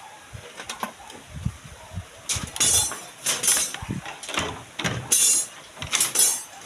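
Irregular run of mechanical scraping and clattering, a series of uneven bursts starting about two seconds in, typical of hand work with tools and metal on a building site.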